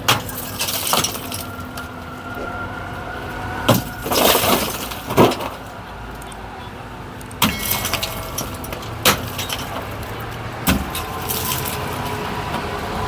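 Demolition work: a series of irregular sharp bangs and crashes, about eight in all, some followed by a clatter like breaking or rattling material.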